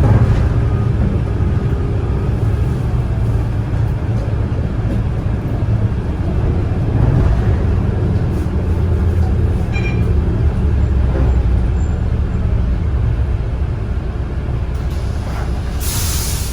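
A Volvo B9TL double-decker bus heard from inside while it drives: a steady low rumble and growl from the drivetrain. The uploader suspects a worn bearing somewhere in the gearbox. Near the end there is a short burst of air hiss, like an air-brake release.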